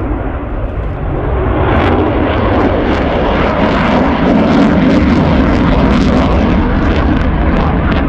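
F-35B Lightning's jet engine roaring during a display, a loud, continuous noise that swells about two seconds in and stays strong as the jet passes.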